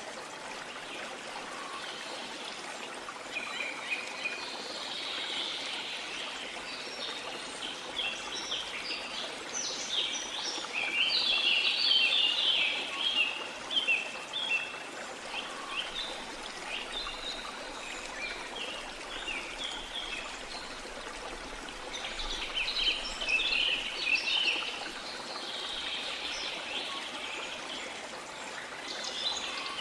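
Steady wash of sea water with small birds chirping and twittering over it in lively bursts, busiest about ten to fourteen seconds in and again shortly after twenty seconds.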